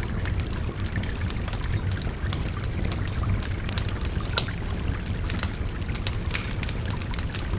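Wood fire crackling with frequent sharp pops, one louder pop a little past halfway, over the steady rush of a babbling river.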